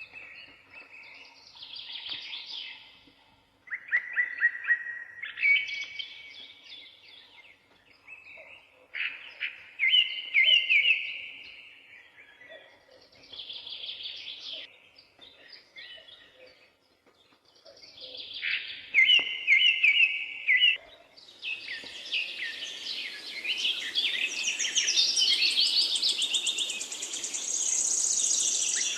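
Songbirds singing in short, repeated phrases of rapid chirps and trills, a phrase every few seconds with pauses between. About two-thirds of the way through the singing thickens into a denser, continuous chorus with higher notes over a faint hiss.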